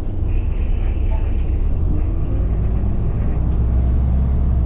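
Bus engine and road rumble heard from inside a moving city bus: a steady low drone.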